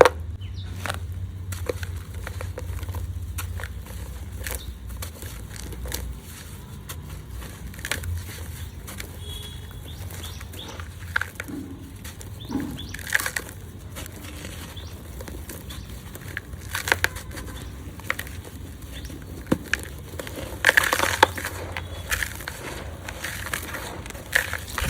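Crumbles of gritty red dirt being crushed and rubbed in the hands: a string of sharp gritty crackles and crunches, thickest near the end.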